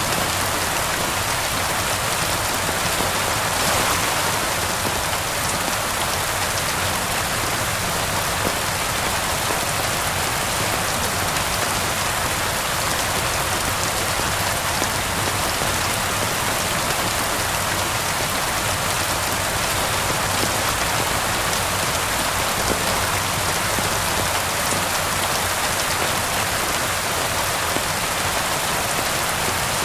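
Steady rain falling on surfaces, a continuous even hiss with no let-up.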